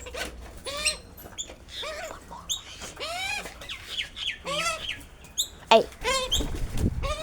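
Wild birds calling over and over with short, arching calls, one or two a second, mixed with higher chirps. There is a low rumble near the end.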